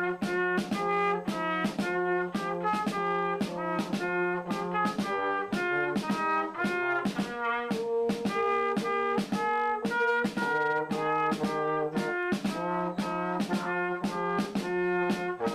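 Brass instruments playing a tune together in short, separate notes at a steady pace.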